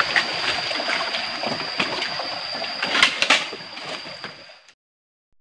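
Shallow stream water trickling and sloshing, with a few sharp splashes about three seconds in and a steady high whine underneath. It fades out about four and a half seconds in.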